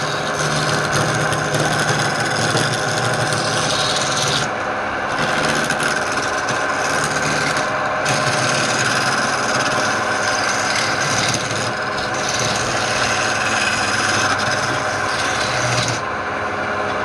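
Wood lathe running while a turning tool cuts into the spinning wood: a steady scraping over the motor's hum, with the scraping easing briefly about four, eight and sixteen seconds in as the tool comes off the wood.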